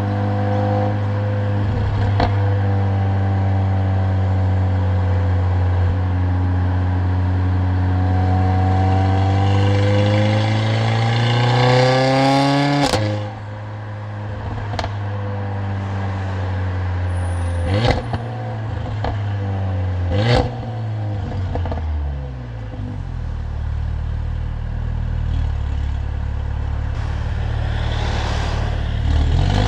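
Mercedes-AMG CLA45's turbocharged 2.0-litre four-cylinder engine and loud exhaust on the road. It cruises steadily, then revs climb in a pull to a sharp crack at the shift about halfway through. A couple more sharp cracks follow as the revs fall away, and the revs rise again near the end.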